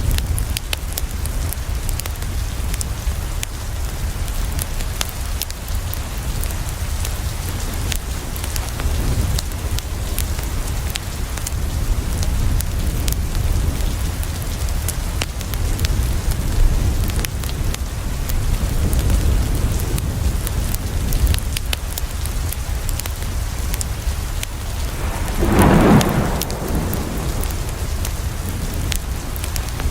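Steady rain with many small sharp drop ticks over a continuous low thunder rumble, and one louder roll of thunder swelling up near the end.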